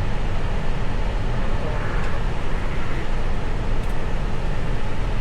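Steady rushing noise inside an Airbus A321 cockpit in the climb: airflow over the nose and the run of its IAE V2500 engines, even throughout with no tone standing out.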